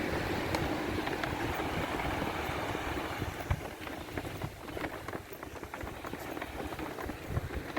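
Footsteps on sand while walking, with wind buffeting the microphone and scattered small clicks.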